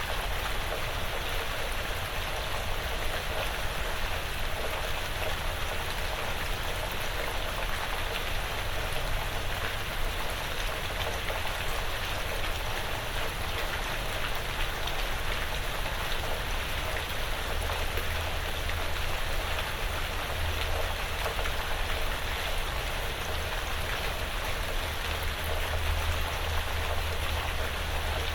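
Steady light rain pattering on a porch roof and the surrounding woods, a continuous hiss of many small drops.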